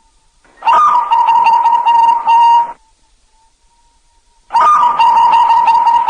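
Zebra dove (perkutut) cooing: two repeated cooing phrases of about two seconds each, about two seconds apart, the first starting less than a second in.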